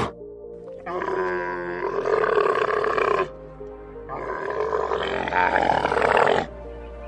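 Two long, loud animal calls, each lasting about two and a half seconds, the second starting about four seconds in, over steady background music.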